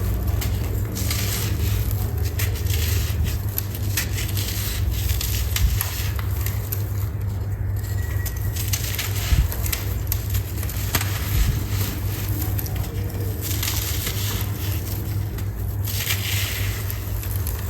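Dry golden sand crumbling: gritty crunching and crackling as clumps break apart, with many small sharp clicks, over a steady low hum.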